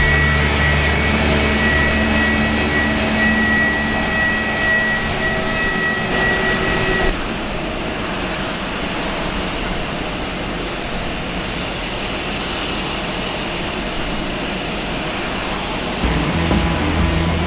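Jet airliner engines: a steady high whine over a low hum, which changes after about seven seconds to an even rushing roar.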